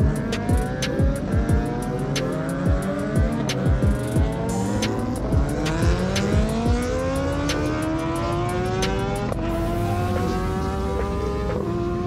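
Superbike racing motorcycles accelerating hard, engine pitch rising again and again as they pull through the gears, several bikes overlapping. A hip hop beat is mixed in.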